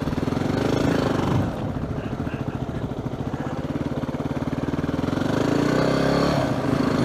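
Yamaha WR250R's single-cylinder four-stroke engine running under way. Its pitch climbs, drops suddenly about a second and a half in, then climbs again and drops near the end.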